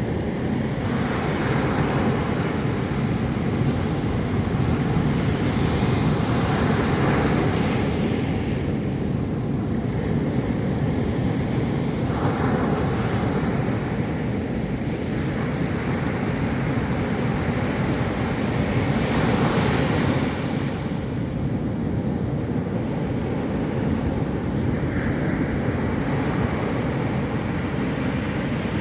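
Ocean surf breaking on a beach: a continuous rush of waves that swells louder every several seconds as breakers come in. Wind buffets the microphone throughout.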